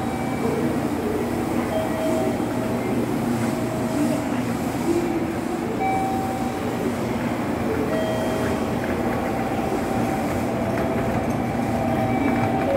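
Steady hum and noise of a stationary JR Kyushu 885 series electric train standing at a station platform, with its onboard equipment running.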